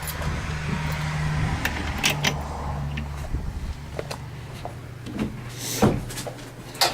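A steady low motor hum that stops about three and a half seconds in, with scattered clicks and knocks of things being handled.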